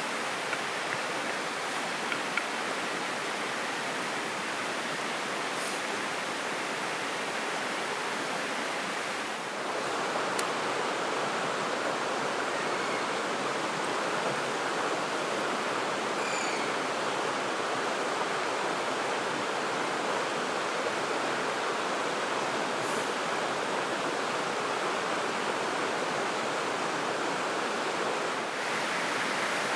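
Steady rushing of a river or stream flowing, an even water noise with no let-up.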